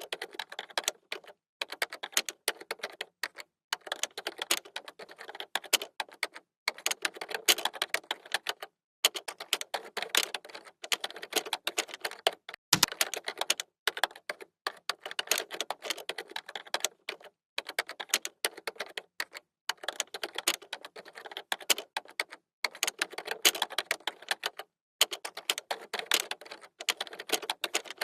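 Computer keyboard typing: rapid runs of key clicks broken by short pauses every second or two, with one heavier key thump about halfway through.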